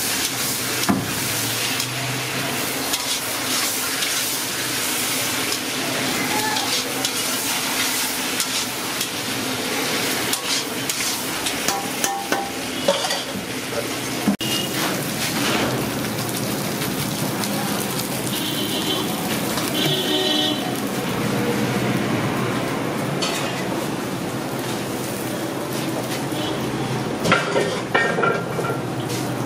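Chicken pieces sizzling in hot oil in a large iron kadai, with a flat metal spatula stirring them and scraping against the pan.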